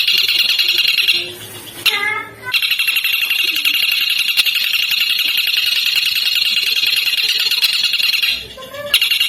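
Songbird giving a long, very rapid, shrill rattling trill, broken once about a second and a half in by a short pause with a few quick chirps, then resuming until a second short break near the end.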